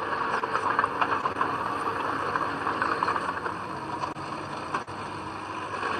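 Diesel engine of heavy earthmoving machinery running steadily, with dense mechanical clatter.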